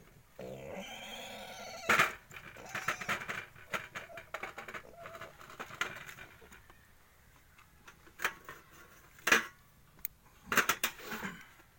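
A pig grunting and giving short squealing calls, with several sharp knocks or clicks later on.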